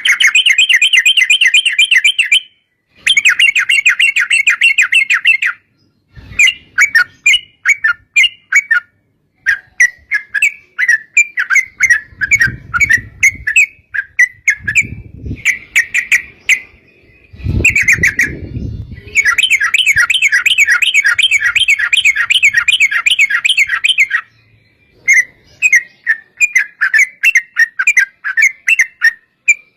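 Yellow-vented bulbuls (trucukan) singing loud, fast bubbling phrases, with long rapid rolling trills ('ropel panjang') near the start and again about two-thirds of the way in, and choppier chattering notes between. A low rumbling noise sits under the calls in the middle.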